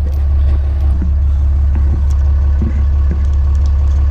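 Truck engine idling steadily with a low hum, with a few light metallic clinks over it.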